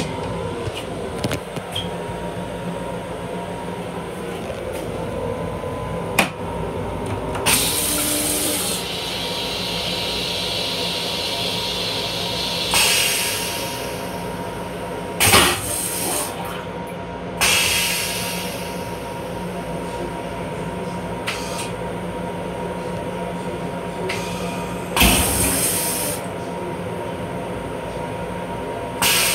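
Running noise of an M7 electric railcar heard inside its small restroom: a steady low rumble with a constant hum. It is broken by several short bursts of hissing and a sharp knock about halfway through.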